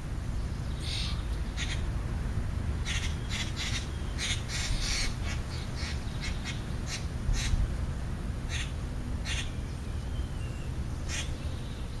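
Backyard birds calling: a scatter of short, harsh chirps and calls, thickest about four to five seconds in, with a thin rising whistle near ten seconds, over a steady low rumble.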